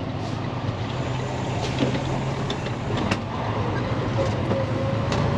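Freightliner semi truck's diesel engine running with a steady low drone, heard inside the cab along with road noise and a few light clicks.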